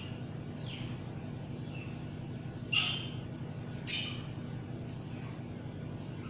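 Pet bird giving short, sharp calls that drop in pitch, three of them with the loudest about three seconds in, over a steady low hum.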